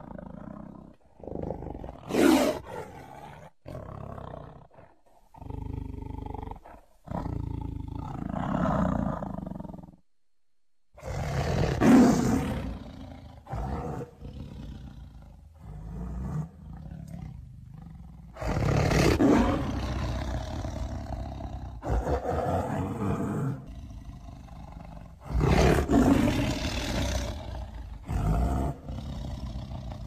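Siberian (Amur) tiger roaring, a string of separate calls with short pauses between them, some ending in abrupt cuts; four roars stand out as loudest.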